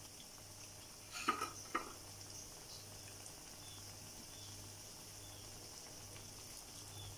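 Battered nam wa bananas frying in rice bran oil in a pan, a steady sizzle. Two sharp knocks a little over a second in.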